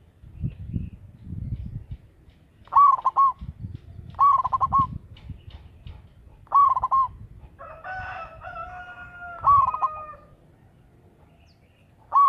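Zebra dove cooing: five short, trilled phrases repeated a second or two apart. Around eight seconds in, a longer held call of another bird, about two seconds, runs under one of the phrases.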